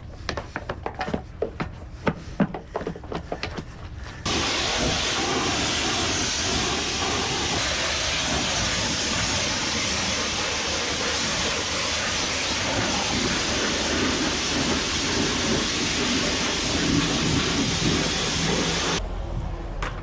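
A run of clicks and knocks, then a pressure washer wand spraying water: a loud, steady hiss that starts suddenly about four seconds in and cuts off near the end.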